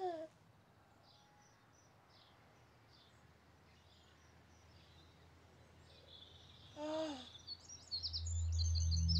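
Faint birdsong, scattered high chirps over a quiet outdoor background. A baby's short falling-pitched vocal sound comes at the start and again about seven seconds in. Near the end a low, steady, louder musical tone sets in.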